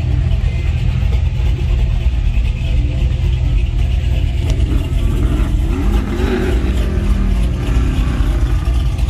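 Vehicle engines running with a steady low rumble, and an engine revving up and back down about two-thirds of the way through.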